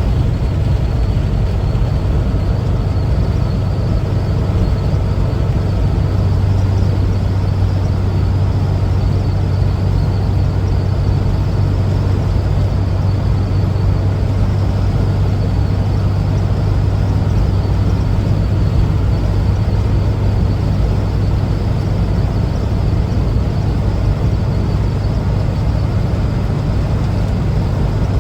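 1974 Volkswagen Westfalia camper's air-cooled Type 4 flat-four engine running steadily under way, with road noise. Its low hum grows stronger a few seconds in and then holds steady.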